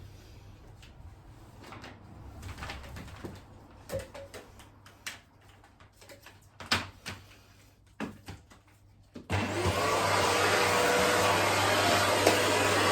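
A few light clicks and knocks, then a vacuum cleaner switches on abruptly about nine seconds in and runs steadily with a low hum, vacuuming the dismantled fan's parts.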